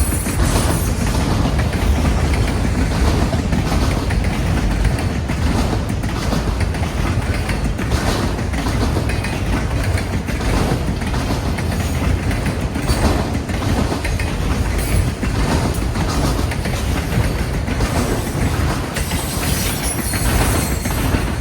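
Freight train cars rolling past, wheels clicking over the rail joints, with strong wind rumbling on the microphone.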